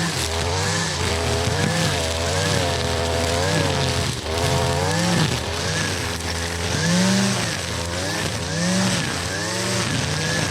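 Two-stroke gas string trimmer fitted with a weed eater head, its engine revving up and falling back again and again, about once a second, as it cuts through tall grass and weeds.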